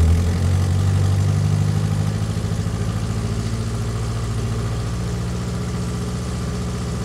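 Austin 6 cwt (Morris Minor) van's four-cylinder engine idling just after a cold start. It runs steadily, settling slightly quieter over the first couple of seconds.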